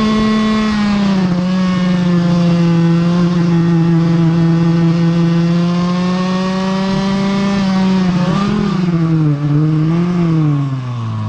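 Vintage racing kart's two-stroke engine heard onboard, running at high revs with a steady pitch. About eight seconds in the revs waver up and down, then fall off sharply near the end as the throttle comes off.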